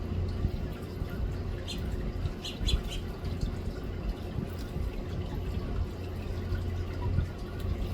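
House finches giving short, high chirps, a few in quick succession about two to three seconds in, over a steady low hum.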